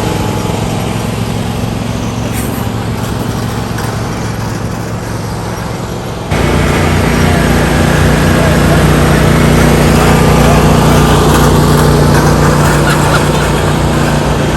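Riding lawn mower engine running steadily. It turns abruptly louder about six seconds in.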